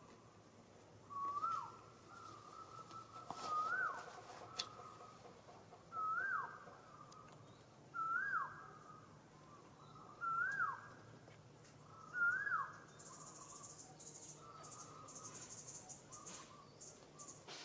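A bird repeating the same short call six times, about every two seconds: each a note that slides up and then drops away sharply. A high, pulsing buzz joins near the end.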